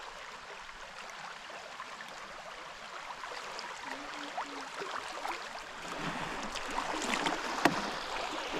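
River water splashing and running around a canoe, growing louder over the last few seconds, with scattered small clicks and one sharp knock on the hull near the end.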